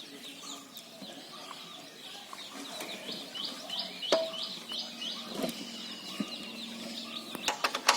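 Birds calling, with a quick series of repeated high chirps, about four a second, around three to four seconds in, and a few sharp clicks near the end.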